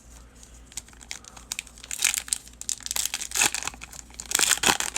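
A foil trading-card pack wrapper crinkling and tearing as it is opened, with cards rustling in hand, in uneven bursts that are loudest about two, three and four and a half seconds in.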